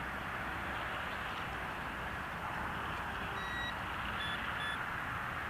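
Short electronic beeps from a radio-control transmitter: one longer beep a little past halfway, then two quick short ones. Under them is a steady rushing noise.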